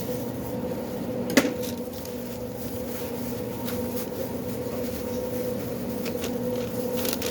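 Steady hum of food-counter equipment, with one sharp knock about a second and a half in and a few lighter clicks near the end, from containers and utensils being handled.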